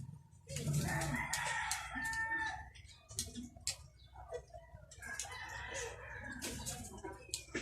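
A rooster crowing twice: a long crow early on and a weaker one later, with sharp clicks and knocks in between.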